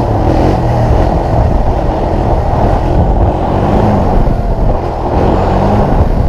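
Small off-road vehicle engine running steadily, a dense low-pitched motor sound.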